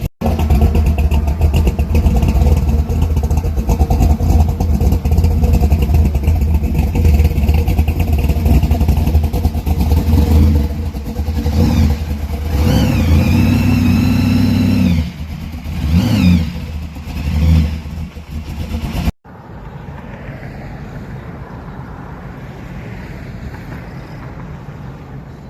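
Car engine running loud and rough, revved up about twelve seconds in and blipped twice near sixteen seconds. After a sudden cut at about nineteen seconds, only a quieter steady background hum.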